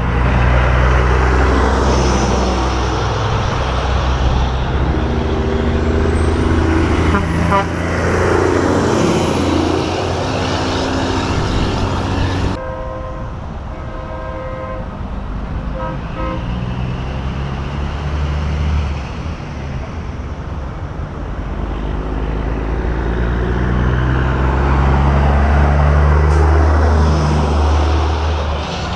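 Semi trucks driving past one after another, their diesel engines running, with the noise swelling and fading as each goes by. A truck air horn gives a series of short blasts about halfway through.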